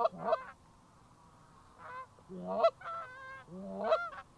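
Geese honking: two short calls at the start, then a run of four more between about two and four seconds in, one of them a quavering, yodel-like call.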